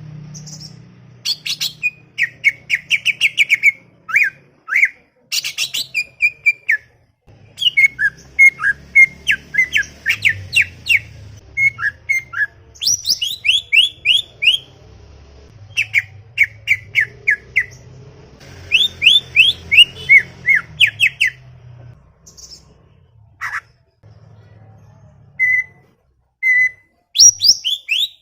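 Cucak ijo (green leafbird) singing a chatty song: rapid runs of quick down-slurred whistled notes in phrases separated by short pauses. Near the end there is a few seconds' lull with only a couple of single notes before it starts up again.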